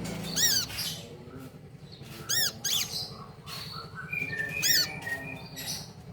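Sunbird calling: a few short, sharp calls, each a quick rise and fall in pitch, about two seconds apart, over a low steady hum.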